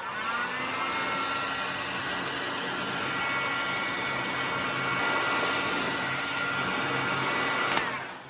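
Electric heat gun running steadily, its fan whine rising as it spins up at the start and cutting off with a click near the end. It is heating the water pump housing so the tight-fitting shaft and bearing can be pressed out.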